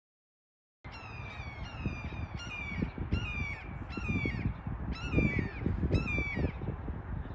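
A bird calling over and over in a steady series of short, harsh notes that slide downward, starting abruptly about a second in. Under the calls runs a low outdoor rumble like wind on the microphone.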